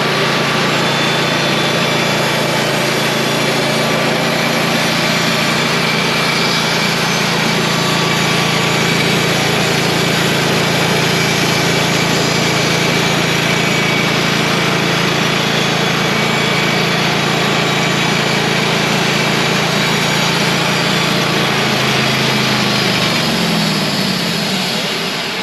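Wood-Mizer portable sawmill's gasoline engine running steadily under load while the band blade cuts through a log. Near the end the engine slows with a falling pitch and dies: it has run out of gas.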